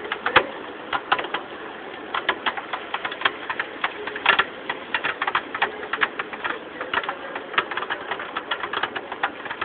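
Steady rain with drops tapping sharply and irregularly on a hard surface close by, several taps a second.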